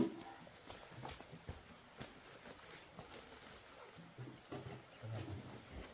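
Insects chirring outdoors: one steady, unbroken high-pitched drone, with faint scattered knocks and a few brief low sounds under it.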